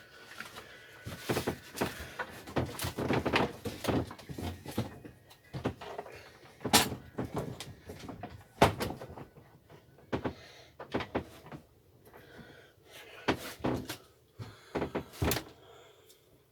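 Irregular knocks, clunks and rattles of hard parts being handled while working on a lawnmower, several sharp strikes a second or so apart with quieter clatter between.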